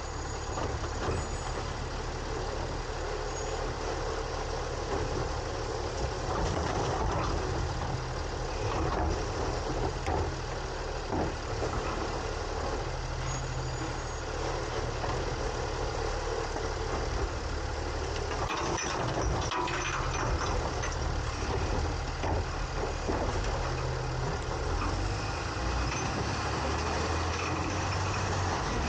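Engine of a 2022 Autocar ACX garbage truck running steadily, heard from inside its New Way Sidewinder hopper. Scattered knocks and rattles come over the engine, a cluster of them about two-thirds of the way through.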